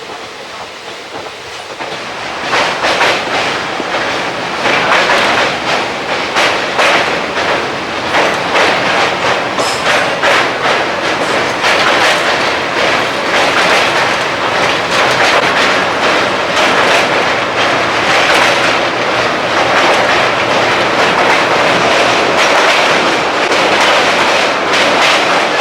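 Running noise of a moving passenger train's ICF coaches: a steady roar of wheels on rail, full of rapid clickety-clack over rail joints. It gets much louder about two and a half seconds in and stays loud.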